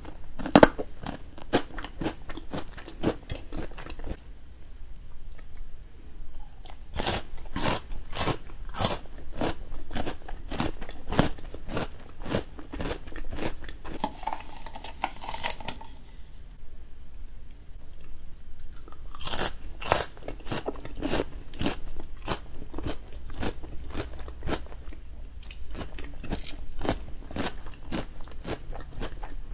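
Close-up crunching and chewing of raw vegetable sticks and cabbage: crisp, irregular bites and chews with a few brief pauses.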